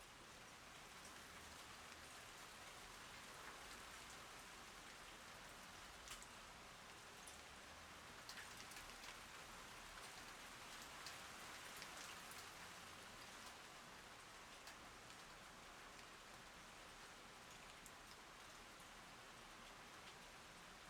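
Rain falling: a faint, steady hiss with scattered sharp drop ticks, a little louder in the middle.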